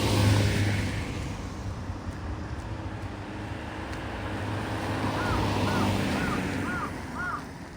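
Cars passing on a street: one goes by just at the start and a second swells and fades about five to six seconds in, each a rush of tyre and engine noise with a low hum. A run of five short chirps sounds as the second one passes.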